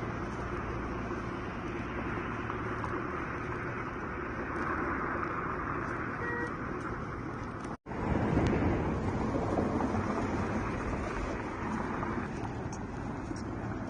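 Compact tractor's engine running steadily. It cuts out abruptly about eight seconds in and comes back louder.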